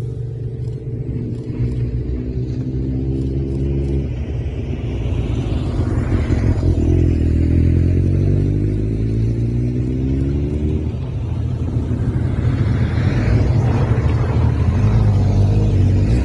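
Engines running with a deep, steady rumble; from about six seconds in, one engine climbs in pitch as it picks up speed.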